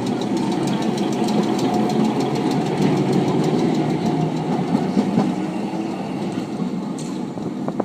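Heritage electric bogie tram running along its rails, heard from on board: a steady rumble and rattle of the wheels and running gear with faint regular ticking.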